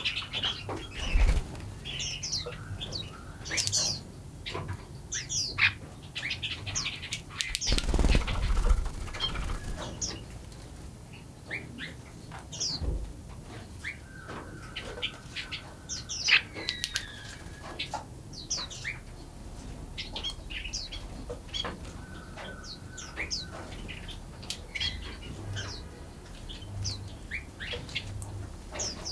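Several songbirds chirping and calling, with many quick falling chirps and, twice, a steady whistled note held for a second or more. A short burst of rushing noise sounds about eight seconds in.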